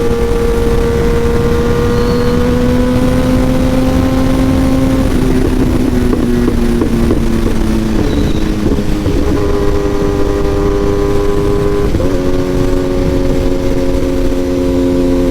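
Kawasaki ZX-10R inline-four sport bike running through an aftermarket SC Project exhaust while riding, over a rush of wind noise. The engine note creeps up steadily for a few seconds, wavers and drops around the middle as the throttle changes, then settles and steps up to a higher pitch near the end.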